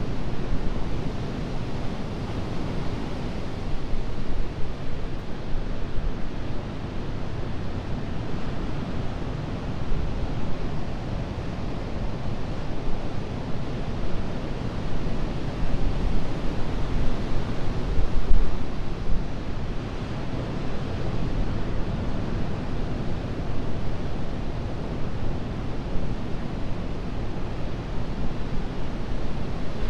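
Ocean surf breaking and washing on a beach: a steady, rushing wash that swells and eases, a little louder a bit past the middle.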